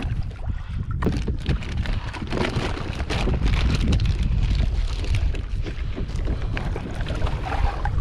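Wind buffeting the microphone over water sloshing and splashing against a kayak's hull, with scattered small knocks throughout.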